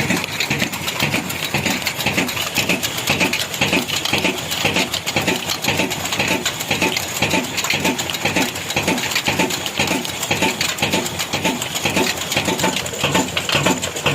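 Old black diesel engine, a single-cylinder 'kala engine', running steadily with an even, regular beat and a fast rattle of clicks.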